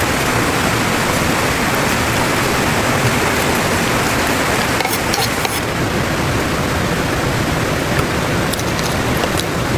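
Heavy precipitation falling steadily as a dense, even hiss, with a few faint ticks of drops striking a surface.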